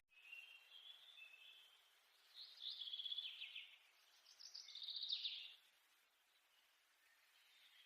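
Faint bird song: thin chirps with two louder, quick trills, about two and a half and five seconds in.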